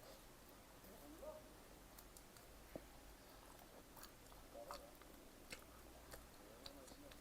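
Faint chewing of pizza, with a few soft mouth clicks.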